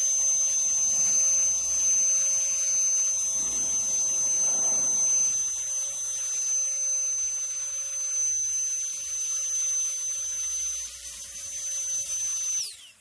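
Handheld cordless jet blower running with a high, steady whine over a rush of air. Near the end it is switched off, and the whine falls in pitch as the motor spins down.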